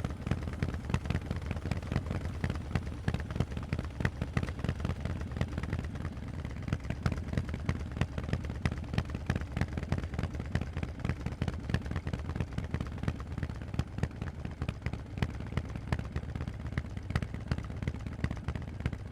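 Harley-Davidson Forty-Eight's air-cooled 1200 cc V-twin running steadily through Vance & Hines aftermarket exhausts: a deep rumble made of rapid sharp firing pulses.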